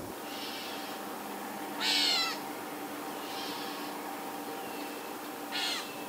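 A songbird gives two loud, harsh calls, each a quick run of down-slurred notes, about two seconds in and again near the end. Fainter, higher calls come in between.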